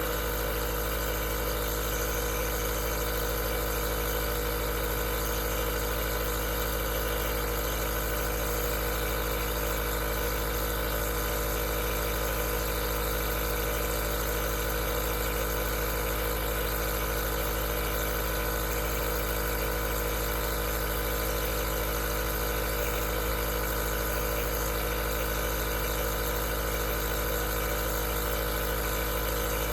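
Aerosol nebulizer running steadily: an even mechanical hum with a layer of hiss that does not change.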